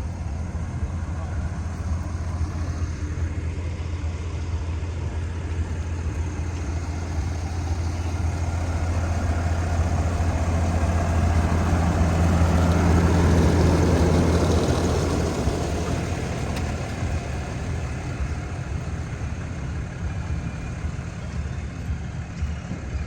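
A motor vehicle's engine idling with a steady low hum. It grows louder for a few seconds around the middle, then eases back.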